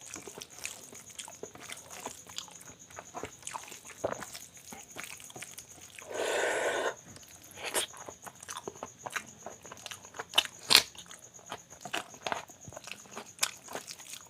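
Close-up eating sounds: someone chewing mouthfuls of rice mixed with mashed potato and dal, with wet smacks and small crunches. A louder noise lasting about a second comes about six seconds in, and a sharp click near eleven seconds.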